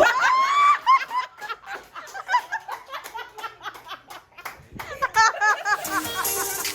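A group of people laughing and giggling, with a high-pitched squeal of laughter right at the start.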